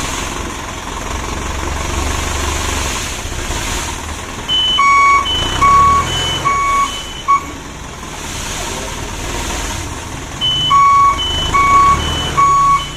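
Dump truck's reversing alarm beeping in two short runs, four beeps about 5 seconds in and three more near the end, over the diesel engine running low.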